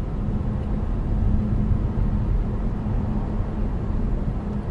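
Car driving on the highway, heard from inside the cabin: a steady rumble of road and engine noise with a faint low hum.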